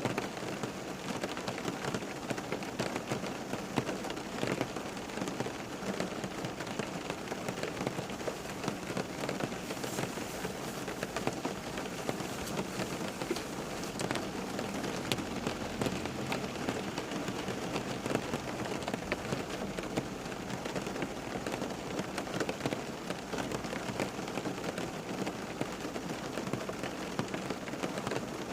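Steady rain falling on a surface, a dense even patter with many individual drops.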